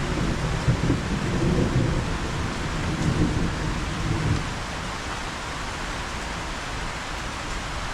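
Steady rain with a rolling rumble of thunder that fades out about four seconds in.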